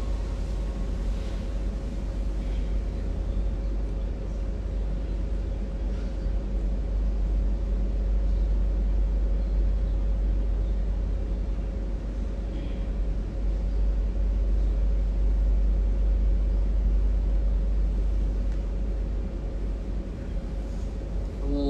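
Steady room noise: a constant low rumble with a faint steady hum above it and no voices.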